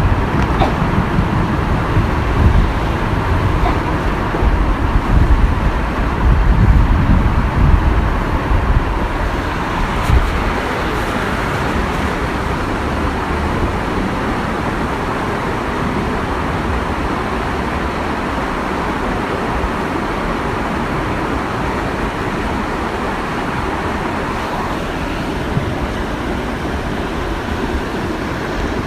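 Steady rush of falling water from a waterfall, with gusty wind rumble on the microphone through roughly the first ten seconds.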